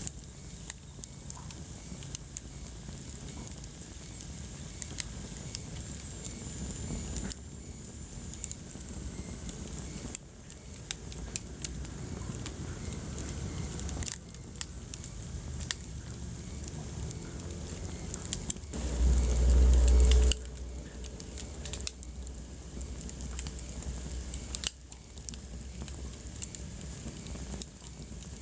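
Wood fire crackling, with many sharp snaps and pops over a steady hiss. A loud low rumble lasting about a second comes a little past two-thirds of the way in.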